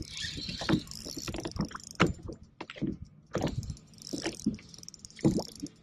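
Irregular knocks and rattles of gear on a fishing boat over a steady high hiss, as a hooked fish is brought alongside.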